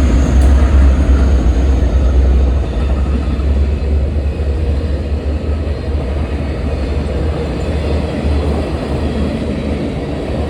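Freight train passing close by: a loud, steady rumble of the cars rolling over the rails, easing slightly about two and a half seconds in.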